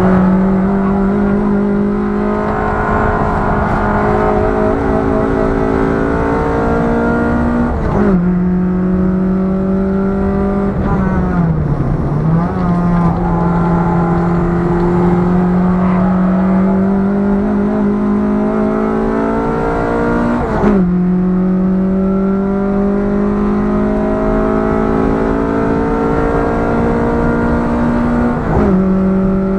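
Ford Fiesta Mk5 Zetec S four-cylinder engine pulling hard on track. Its pitch climbs slowly through each gear and drops sharply at three upshifts, with a brief lift off the throttle and pick-up a little after the first.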